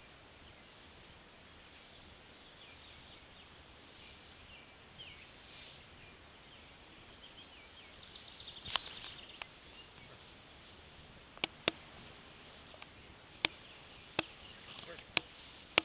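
Faint outdoor field ambience with small birds chirping. About nine seconds in come several sharp, single clicks or snaps, the loudest sounds here.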